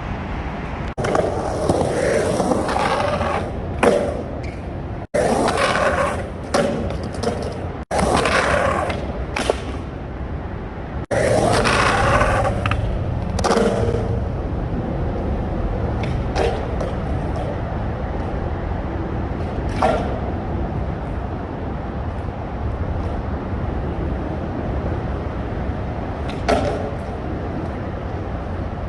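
Skateboard trucks grinding and scraping along a ledge in several short, loud passes, each cut off abruptly. These are followed by the steady rumble of the skateboard's wheels rolling on pavement, with a few sharp clicks.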